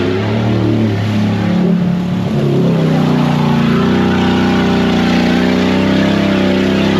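Mud truck engine running and revving, its pitch rising and falling for the first couple of seconds, then held at a steady speed from about three seconds in.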